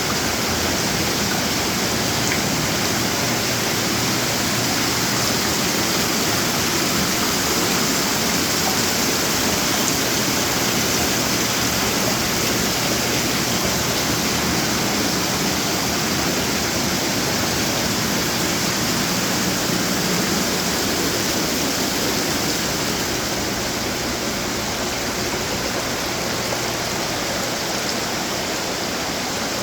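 Running water from outdoor garden fountains splashing and trickling together in a steady rush.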